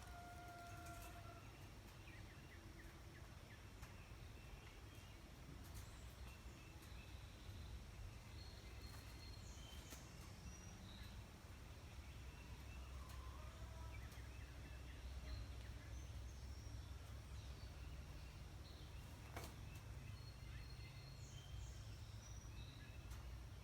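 Faint outdoor ambience: a steady low rumble with scattered short bird chirps and a few light clicks.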